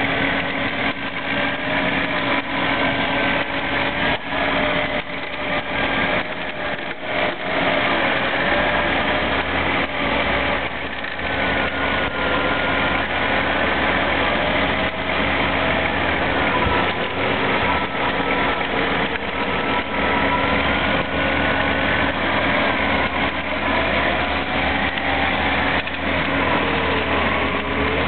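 Off-road vehicle engine running under load, its pitch wavering up and down over a steady hum, as a 4x4 stuck in deep snow is worked free on a tow strap.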